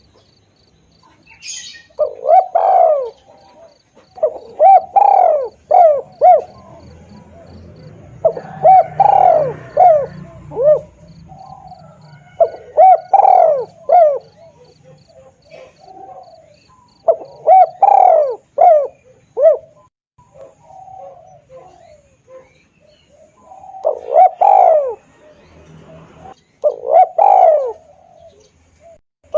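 Spotted dove (tekukur) cooing. It calls in repeated bouts of several quick, arched coo notes, with pauses of a second or more between bouts.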